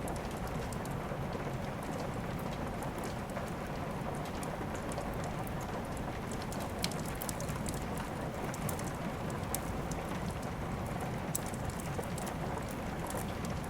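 Steady rain mixed with the scattered sharp pops and crackles of a wood fire burning in a fireplace.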